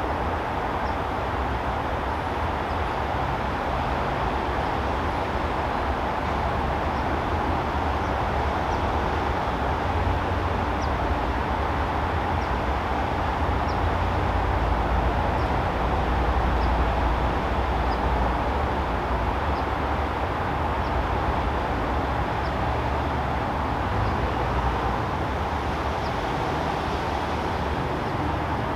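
Steady backyard ambience dominated by a low rumble of distant traffic, with faint short high ticks about once a second.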